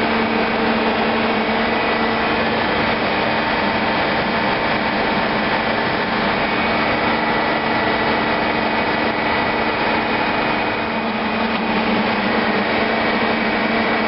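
Steady drone of ship's engine-room machinery running, with a few steady humming tones over a dense even noise.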